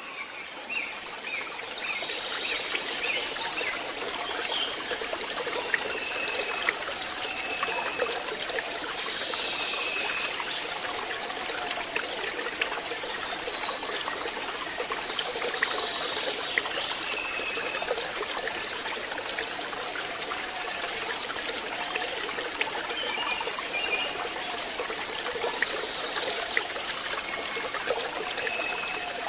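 Water trickling steadily into a fishpond, with short high chirps now and then.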